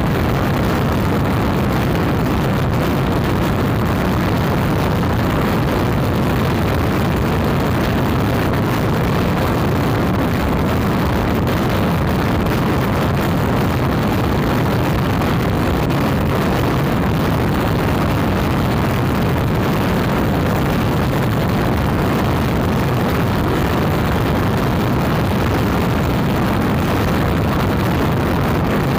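Very strong wind, around 135 km/h, blowing over the microphone: a loud, steady low rumble of wind noise with no letup.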